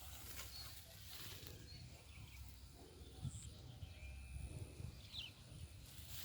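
Faint, scattered short bird chirps, one about five seconds in sliding down in pitch, over a steady low rumble.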